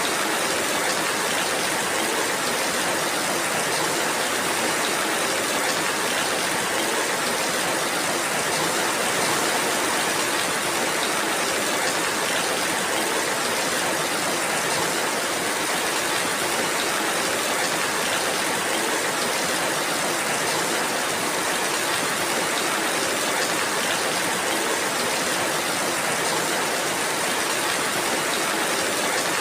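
Steady rainfall: an even, unbroken hiss of rain that keeps the same level throughout.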